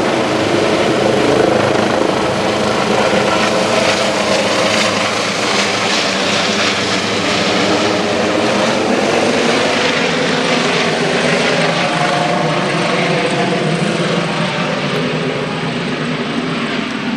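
Airbus H145 twin-turbine helicopter in flight, its rotors and engines making a loud, steady sound that fades slightly over the last few seconds as it departs.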